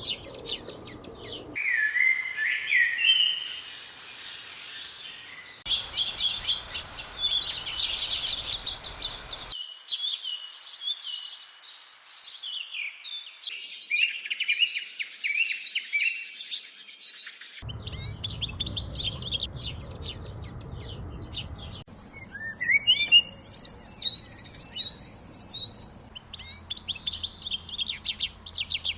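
Small songbirds chirping and calling, with many quick high notes and trills. The background changes abruptly every few seconds, as if separate recordings are joined.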